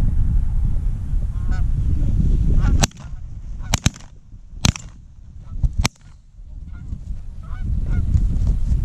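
Geese honking over wind rumble, then a volley of about five shotgun shots in quick succession near the middle, with more honking after the shots.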